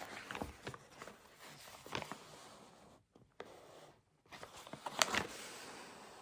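Desk handling noises: rustling and scattered clicks of paper and stationery being moved, cutting out briefly twice, with the loudest rustle about five seconds in.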